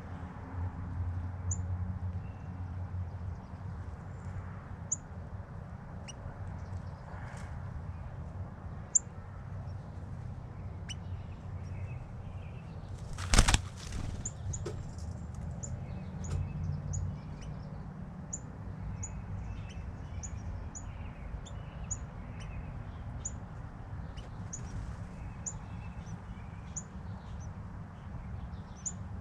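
Northern cardinal giving short, high chip notes, scattered at first and then repeated steadily about once a second over a low background rumble. A brief loud rush of noise comes near the middle.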